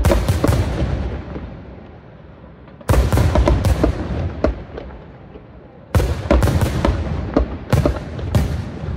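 Fireworks display: three volleys of aerial shells burst about three seconds apart. Each volley is a sudden rapid string of loud bangs and cracks that trails off into a fading rumble.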